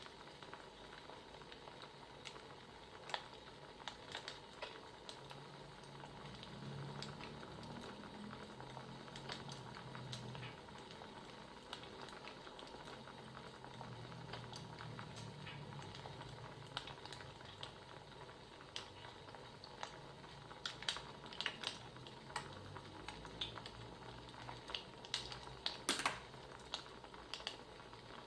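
Faint crackling of a wood fire: scattered sharp pops and clicks over a low steady hiss, the pops coming more often in the second half.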